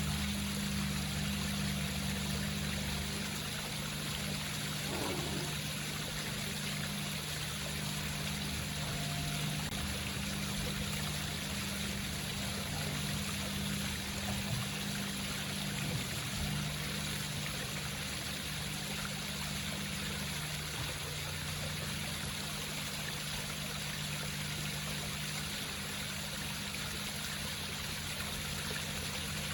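Water of an indoor home waterfall trickling and splashing steadily down its rocks, with a steady low hum underneath.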